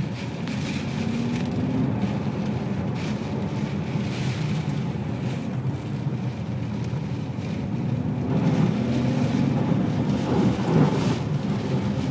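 Ferrari 599 GTB Fiorano's Enzo-derived V12 engine pulling under acceleration, its pitch rising near the start and again about eight seconds in as it gets louder, over a hiss of tyre and road noise on wet tarmac.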